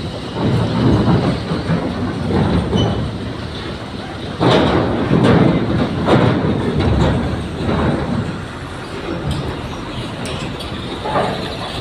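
Heavy vehicles being driven aboard a car ferry: diesel engines running with the rumble and clanking of wheels on the steel deck, in several louder surges about four to seven seconds in.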